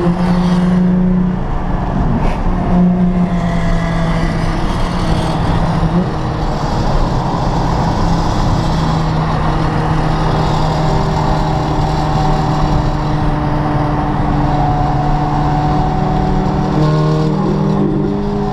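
Nissan 350z's VQ35DE V6 engine heard from inside the cabin, running at a steady cruise with a constant drone and road noise. The drone drops a little in pitch about six seconds in and rises again near the end.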